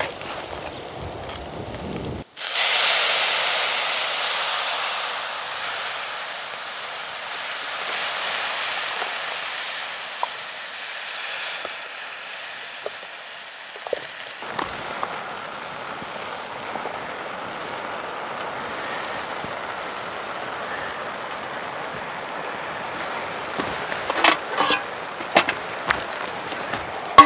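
Hash browns sizzling in a frying pan over a wood fire: a loud hiss starts suddenly about two seconds in and fades slowly, then settles to a softer steady sizzle, with a few sharp clicks near the end.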